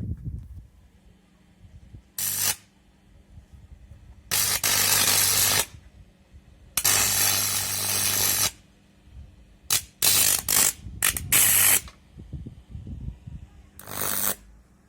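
High-voltage arc from a microwave oven transformer, switched on in repeated bursts: a loud crackling hiss over a steady mains hum. There are about seven bursts, the longest lasting over a second, with short quick ones around the middle.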